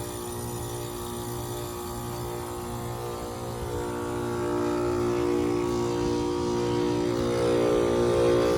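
2002 Lennox Merit Series heat pump running in its defrost cycle: a steady droning hum made of several tones, which swells and grows louder about four seconds in.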